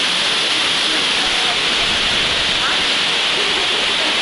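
A mountain waterfall rushing steadily: a loud, even noise of falling water.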